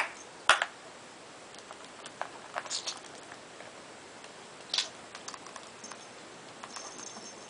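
Scattered light clicks and taps of small plastic toys being knocked about by a pet budgie, the sharpest about half a second in, with a faint high-pitched chirp twice near the end.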